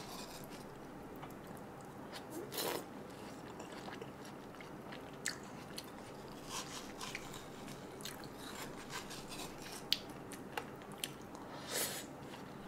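Close-miked chewing of juicy watermelon: many small wet clicks and squishes, with a metal spoon scooping flesh out of a hollowed watermelon half. Two louder wet bursts come about a third of the way in and near the end.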